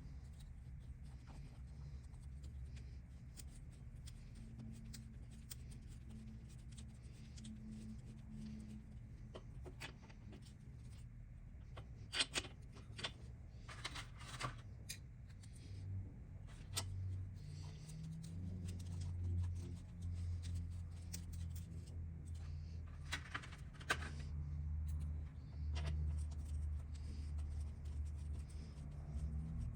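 Small clicks, taps and scrapes of hand tools and metal engine parts being handled, over a steady low hum. The clicks come in clusters about halfway through and again near the end.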